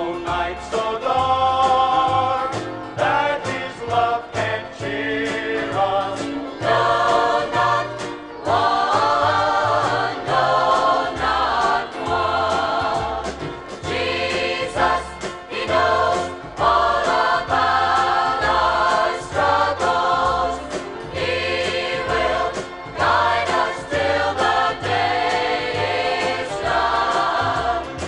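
Gospel music: a choir singing over instrumental accompaniment with a steady bass line.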